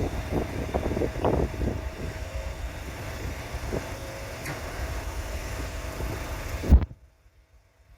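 Wind rumbling on the microphone, with faint voices in the first couple of seconds and a faint steady hum. A loud thump comes near the end, then the sound cuts off suddenly to near silence.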